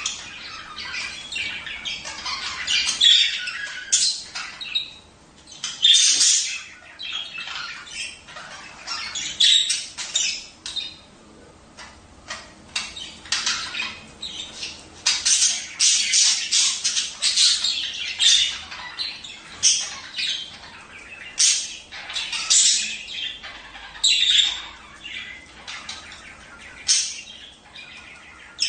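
A flock of budgerigars chattering: a dense, irregular run of short squawks, chirps and warbles, with a thinner patch of calls about halfway through.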